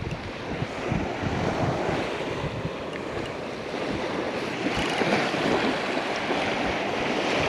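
Surf breaking on the beach with gusty wind buffeting the microphone, a steady rushing noise with uneven low thumps.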